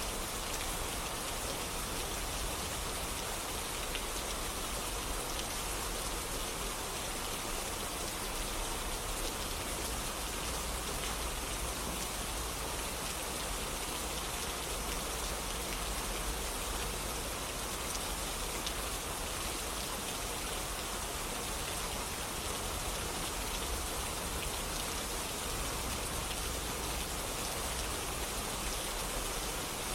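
Steady rain falling, an even hiss with scattered drops landing on surfaces.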